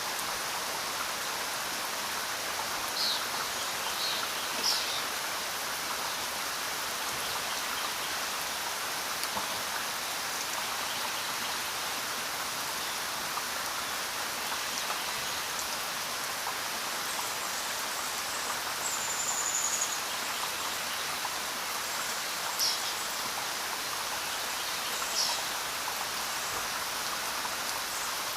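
Steady rain falling as an even hiss. A few short high-pitched sounds stand out above it, a few seconds in and again in the second half.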